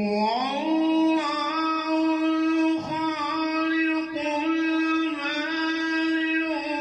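A man's voice chanting unaccompanied in long, held, ornamented notes, melismatic Arabic-style vocalizing in which the words are drawn out. It comes in suddenly and holds one note for long stretches, with slight bends and trills.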